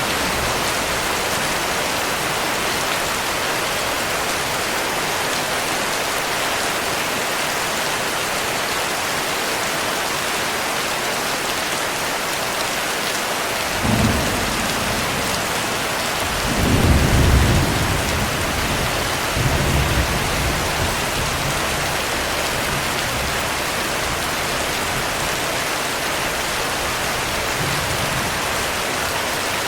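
Steady heavy rain with thunder: a short low rumble about halfway through, a louder, longer rumble a couple of seconds later, and a smaller one after it.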